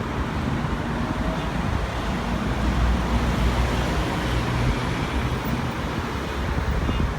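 Jet aircraft engine noise: a steady low rumble with a hiss above it, swelling slightly in the middle.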